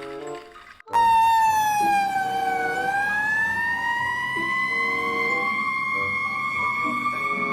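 A fire engine siren starts suddenly about a second in and wails, its pitch dipping and then slowly rising to hold high.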